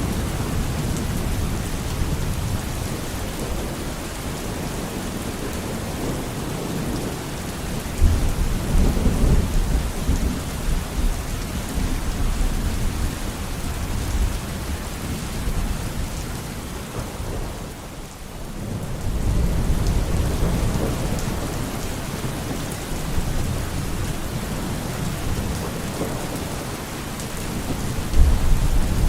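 Steady heavy rain with rolling thunder; deep rumbles swell up about a third of the way in, again past the middle, and once more near the end.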